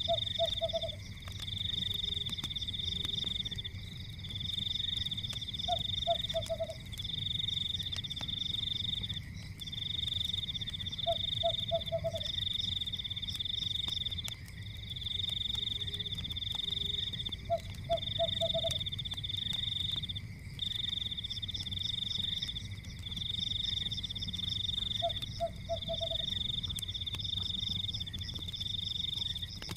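Night nature ambience: a high, pulsing trill repeats in trains of about a second and a half, and a short frog croak of a few quick pulses comes every five to six seconds. Underneath is a steady low rumble with faint crackles from a fire.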